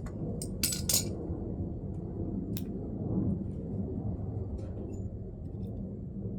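A few sharp clicks and clinks of metal parts and hand tools being handled, several close together about a second in and single ones later, over a steady low hum.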